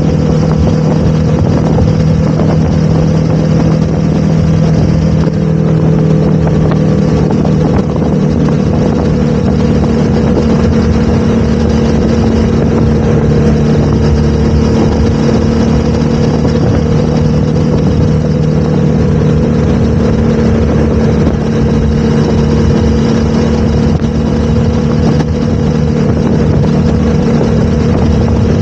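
Motorcycle engine running while riding, holding a steady engine note over wind and road noise.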